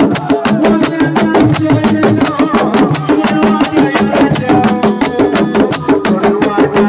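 Senegalese assiko band playing: fast, dense drumming with sharp clacking percussion strokes over a steady pitched backing.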